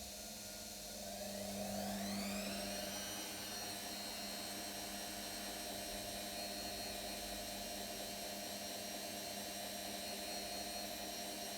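Indesit IWC 71252W washing machine's brushed motor running in a spin cycle: about a second in, its whine rises in pitch for roughly two seconds as the drum speeds up, then holds a steady pitch.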